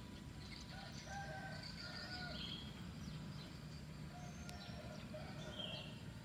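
Birds calling in the background: short, low calls in two runs and scattered higher chirps, over a steady low background hum.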